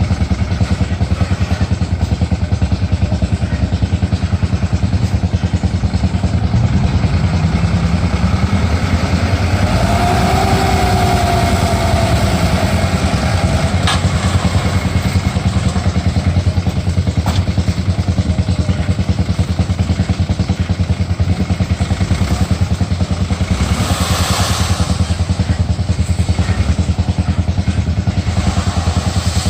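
Dump truck's diesel engine running steadily with a low, even drone. About ten seconds in, a brief higher whine rises and falls over it, and a sharp click follows a few seconds later.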